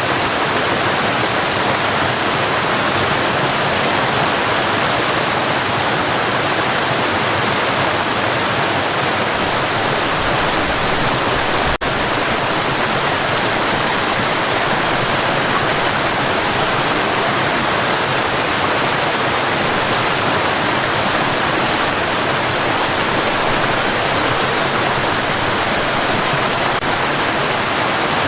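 Steady white noise, an even hiss across low and high pitches with no change. There is one brief dropout about twelve seconds in.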